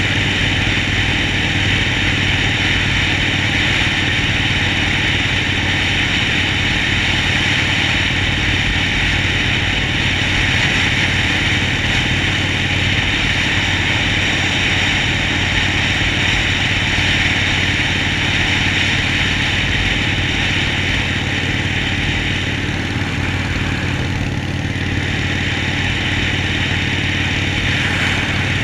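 Harley-Davidson Sportster Forty-Eight's air-cooled V-twin engine running steadily at an even pace, with no clear revving.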